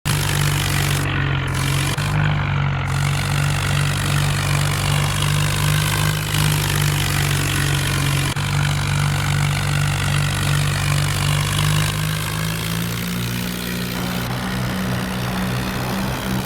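Tractor's diesel engine running steadily under load, with its note shifting and getting a little quieter about twelve seconds in.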